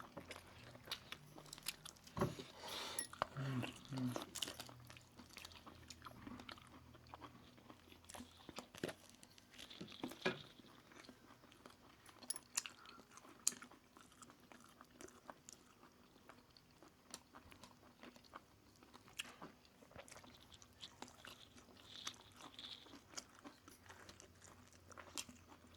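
Close-up eating sounds: chewing, with irregular small crunches and wet clicks of the mouth, louder bites around two to four seconds in and again about ten and thirteen seconds in.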